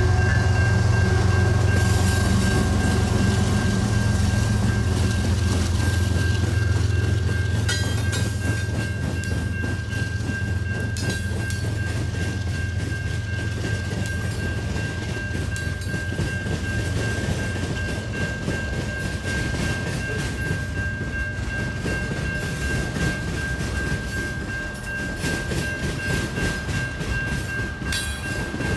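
Train passing close by. A heavy low rumble is strongest for the first half and eases after about seventeen seconds, while the rolling continues with a thin steady high tone and occasional clacks.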